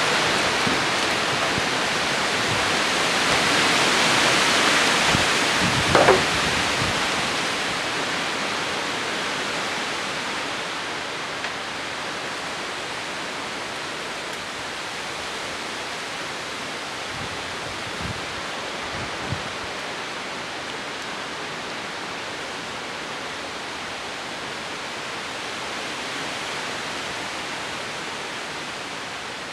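A gust of wind rushing, swelling about four seconds in and then easing off to a steady rush. A brief sharp sound about six seconds in.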